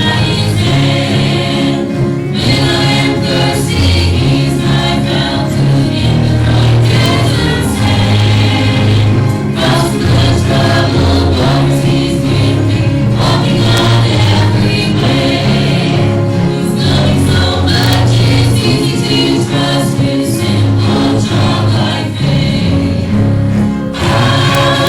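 Congregational hymn singing with instrumental accompaniment: many voices singing together over a steady bass line, with brief breaks between phrases.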